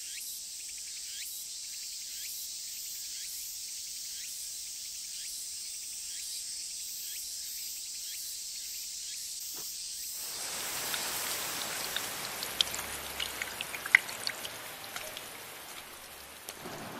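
Steady rain, thin and high for about ten seconds, then suddenly fuller, with single heavy drops splashing among it before it fades near the end.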